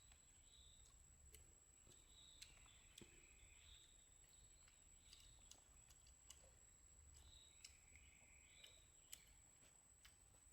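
Near silence, broken by faint, irregularly spaced clicks and a faint high chirping, with a steady thin high tone underneath.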